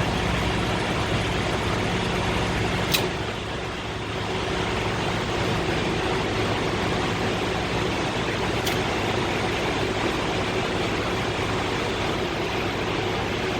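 Steady diesel idling and machinery noise at a truck fuel island while a reefer tank is pumped to full, with two sharp clicks, one about three seconds in and one near nine seconds.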